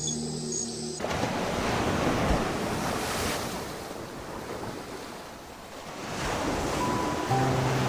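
Ocean surf: waves washing in as a wide rush of noise that swells, ebbs about five seconds in and builds again. Soft music stops about a second in and comes back near the end.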